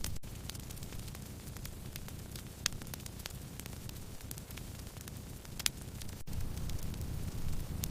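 Wood fire burning: a steady low rush of flames with a continual light crackle and scattered sharp pops, two of them louder, about a third and two-thirds of the way through.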